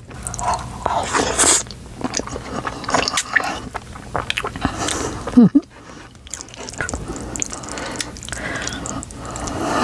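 Close-miked eating of spicy curry ramen noodles: slurping and chewing with wet mouth clicks and smacks. There is a short hum about five seconds in.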